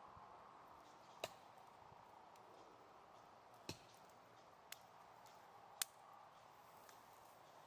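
Wood fire crackling quietly: four sharp pops spaced over the few seconds above a faint steady hiss.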